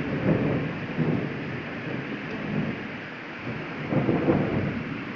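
Heavy rain falling steadily in a constant hiss, with low rumbles that swell and fade at the start and again about four seconds in.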